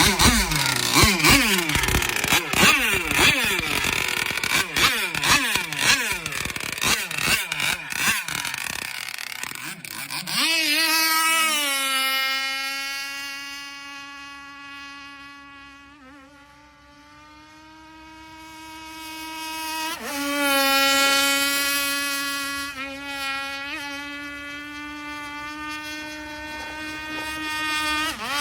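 Motorboat engine running at high revs. For the first ten seconds or so its pitch rises and falls rapidly, then it settles into a steady high-pitched whine. The whine fades away around the middle and comes back louder from about twenty seconds in.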